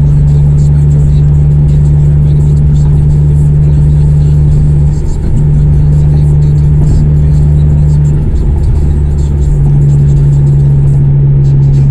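Honda CR-V exhaust with the resonator and muffler removed, running with a loud, steady low drone that dips briefly about five seconds in and again around eight seconds.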